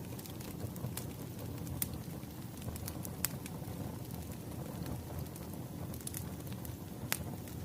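Wood fire burning, crackling with a steady low rumble and sharp pops at irregular intervals.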